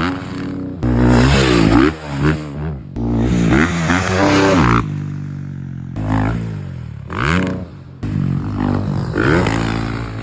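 Yamaha dirt bike engine revving hard and dropping off again and again as it is ridden, its pitch climbing and falling several times, with the sound cutting abruptly from one run to the next a few times.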